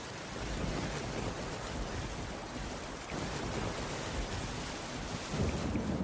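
Steady rainfall, an even hiss, with a low rumble that swells briefly near the start and again near the end.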